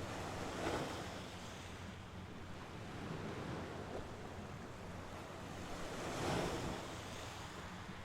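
Small Mediterranean sea waves washing onto the shore, with two louder breaks about a second in and near the end.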